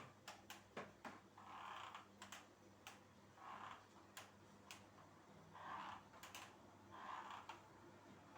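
Quiet household cleaning sounds: light clicks and taps, with soft swishing strokes every second or two.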